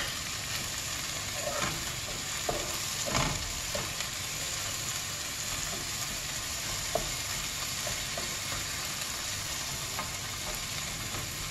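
Chopped onion, ginger and garlic sizzling in hot oil in a steel pot, stirred with a spatula that scrapes the pan in short strokes now and then.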